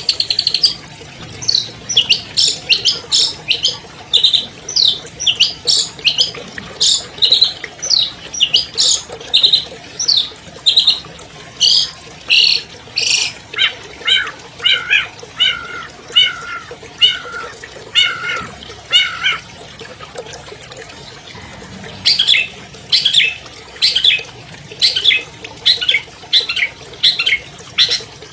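Albino long-tailed shrike (cendet) singing a fast stream of sharp, chattering and whistled notes. Partway through comes a run of lower, evenly repeated notes, then a pause of about two seconds before the rapid song resumes.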